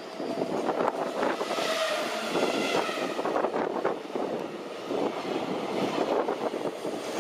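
Container freight wagons rolling past at speed, wheels clattering rapidly over the rails with a steady rumble. About two seconds in, a high tone sounds for a second or so.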